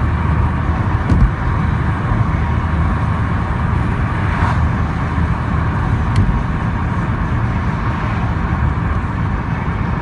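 Volkswagen Golf R engine and road noise while driving: a steady low rumble with no marked change in speed.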